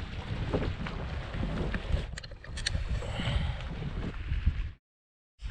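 Wind rumbling on the microphone over water, with a few light knocks a couple of seconds in. The sound cuts out to dead silence for about half a second near the end.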